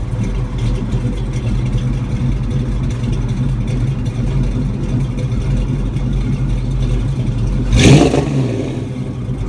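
1969 Chevrolet Camaro exhaust through Flowmaster mufflers idling steadily, with one quick throttle blip about eight seconds in that rises and falls back to idle.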